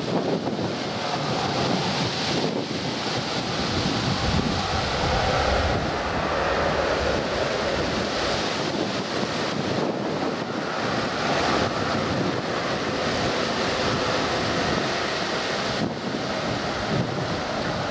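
Steady roar of a Boeing 737-800's CFM56-7B jet engines during a takeoff run, mixed with wind buffeting the microphone.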